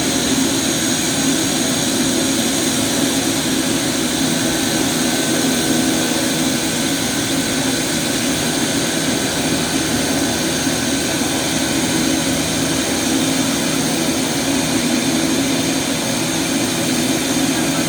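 Pilatus PC-12's Pratt & Whitney PT6A turboprop engine running steadily on the ground, a steady high turbine whine over the propeller's noise.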